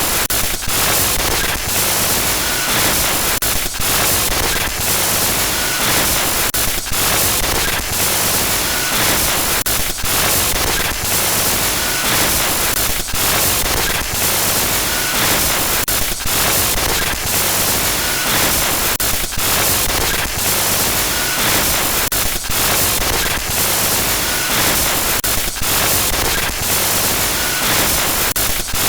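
Harsh digital glitch noise: loud, steady static hiss across the whole range, broken by brief, irregular dropouts several times a second, with faint short high beeps now and then.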